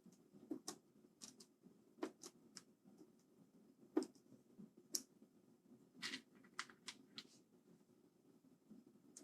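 Faint, irregular clicks and light taps of a screwdriver and small screws being handled on a mechanical keyboard's PCB and frame during reassembly, the sharpest click about four seconds in.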